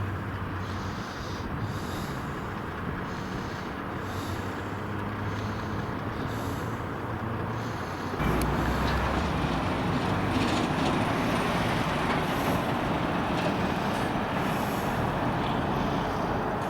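Lorry diesel engines and road noise: a steady engine hum, which about halfway through becomes suddenly louder and deeper as a truck runs closer by.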